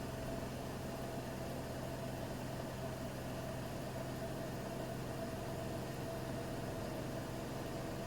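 Bosch Serie 6 WAT286V0 washing machine with its EcoSilence Drive motor running steadily: a constant hum with a steady mid-pitched whine.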